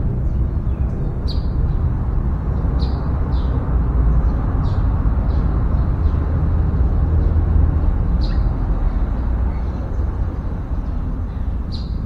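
A handful of short, high bird chirps, spaced a few seconds apart, over a steady low rumble.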